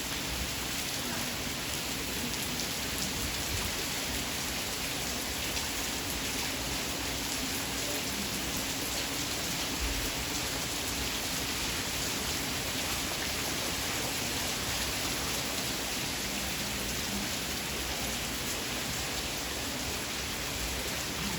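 Heavy rain pouring down steadily, a continuous hiss with many small drops pattering on surfaces.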